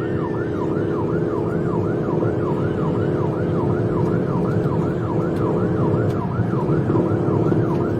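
Police car siren on a fast yelp, its pitch sweeping up and down about three times a second without a break, over the steady sound of the pursuing car's engine and tyres.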